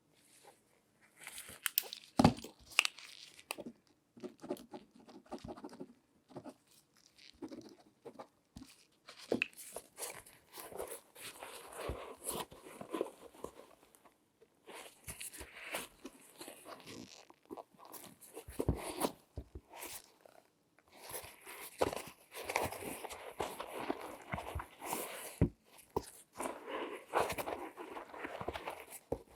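Close-miked handling sounds of latex-gloved hands on objects: irregular rustling and rubbing with many sharp clicks and taps, starting about a second in, the loudest click about two seconds in.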